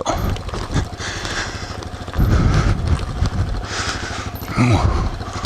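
Single-cylinder off-road motorcycle engine running at low revs, a low pulsing rumble that gets louder about two seconds in.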